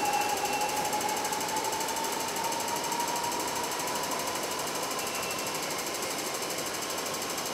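MTR West Rail Line train running through the station without stopping, its running noise slowly fading, with a faint whine that rises slightly in pitch.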